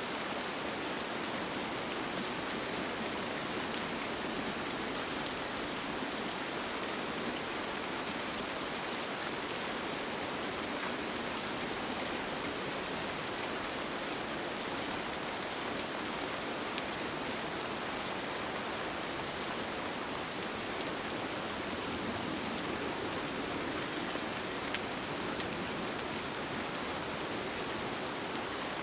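Steady rain heard from inside a tent: an even hiss with scattered individual drops tapping.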